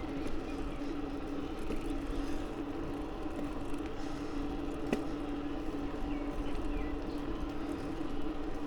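Bicycle riding noise: a steady hum from the moving bike with low rumble under it, and a single sharp click about five seconds in.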